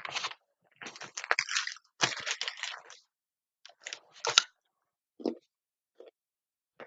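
A person eating close to the microphone: irregular bursts of chewing and crunching for the first few seconds, thinning to a few short, separate mouth and utensil clicks near the end.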